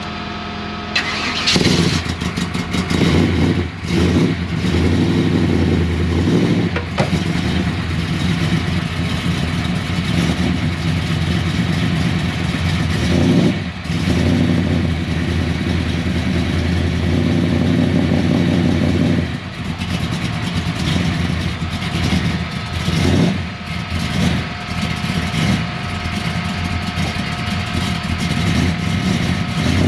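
Big-block V8 of a 1967 Chevelle drag car running, louder from about a second in, its revs dropping and picking up again several times.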